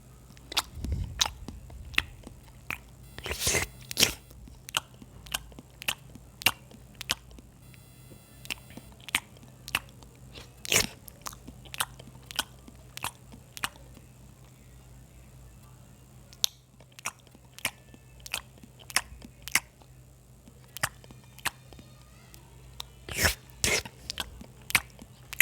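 Close-up eating sounds: chewing and biting with many sharp, irregular crunches and mouth clicks, over a steady low hum.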